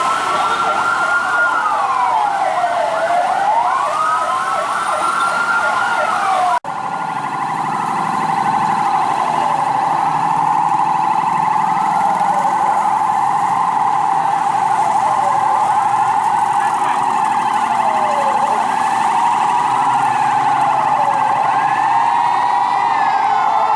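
Fire truck sirens in a street parade. First one siren wails, rising and falling slowly. After an abrupt cut, several sirens sound together: a steady tone under repeated overlapping sweeps that rise and fall in pitch.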